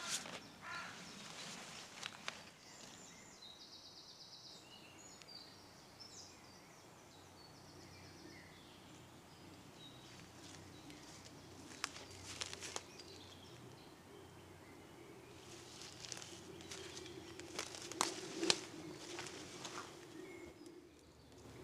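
Woodland ambience with short bursts of birdsong: high chirps and trills, mostly in the first few seconds. Scattered crunching and rustling come around the middle and again near the end, and a faint low drone runs underneath.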